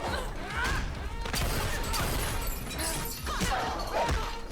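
A film fight scene's soundtrack: background music with a series of sharp hits and crashes.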